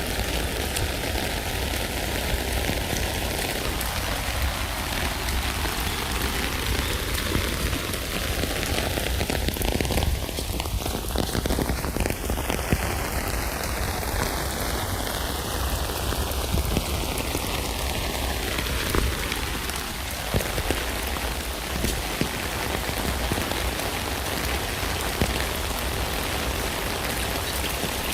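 Steady rain falling on a tent, an even patter with a few louder drops here and there.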